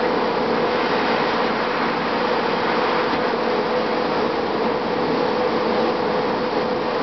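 2007 Gillig Advantage low-floor transit bus, with a Cummins ISM diesel and Voith D864.5 transmission, running at a steady pace: an even drone of engine and road noise with a steady hum through it.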